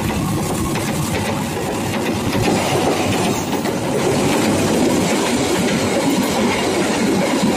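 Passenger train coaches passing close by at speed, their steel wheels running over the rails in a continuous rush. It grows louder about two and a half seconds in.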